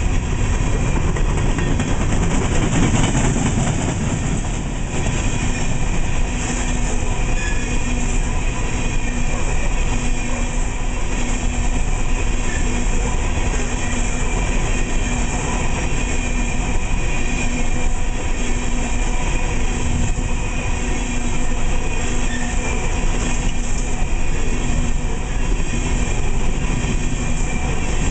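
Empty aluminum coal cars of a freight train rolling past in a steady, loud clatter of steel wheels on the rails, with a faint tone that comes and goes.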